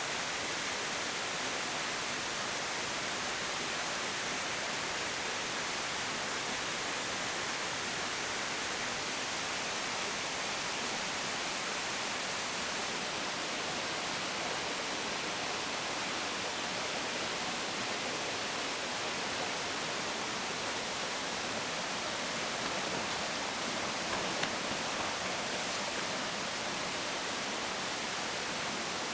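Steady, even rushing of water outdoors, a continuous hiss with no tune or voice, with a few slight louder moments about three-quarters of the way through.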